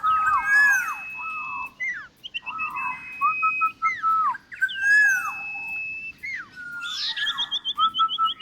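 Several birds whistling at once: clear held whistles and falling glides overlapping, with a quick run of short repeated notes near the end.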